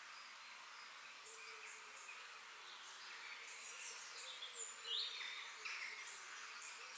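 Outdoor nature ambience: many small birds chirping and calling over a steady high hiss, with a faint insect hum. The loudest call is a quick rising chirp about five seconds in.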